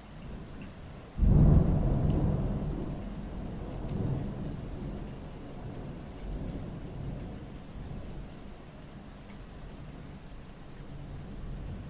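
Thunder breaks suddenly about a second in, then rolls on as a low rumble that swells again a couple of times while slowly fading. Steady rain falls underneath.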